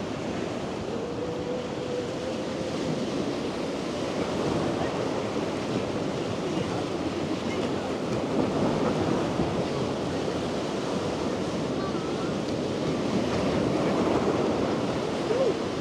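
Sea waves washing and breaking on the shore: a steady surf wash, with some wind on the microphone.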